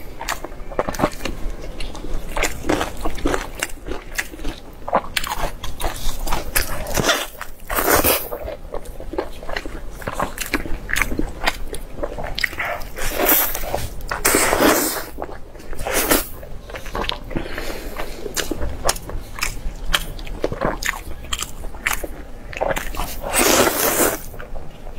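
Close-miked eating: irregular wet chewing and lip-smacking clicks from a mouthful of braised pork belly and enoki mushrooms. A few longer, louder smacks come through, the last near the end as fingers are sucked.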